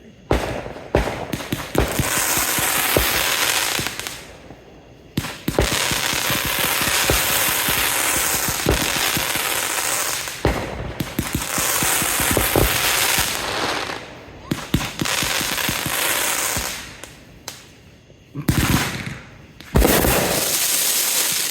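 Consumer fireworks going off in long runs of rapid pops and crackling, several volleys with brief pauses between them and two shorter bursts near the end.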